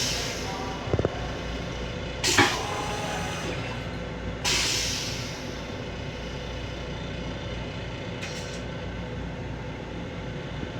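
Steady running rumble of an LIRR M7 electric railcar, heard from inside its restroom. A knock comes about a second in, then a sharp clunk a little after two seconds, and a short hiss fades away at about four and a half seconds.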